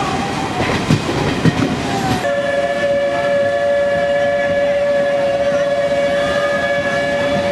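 Train running with clicks of wheels over rail joints, then about two seconds in a locomotive horn starts a long, steady blast.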